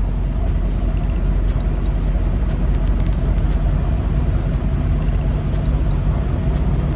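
Semi truck's diesel engine running steadily at low speed, a low, even rumble while the truck is maneuvered.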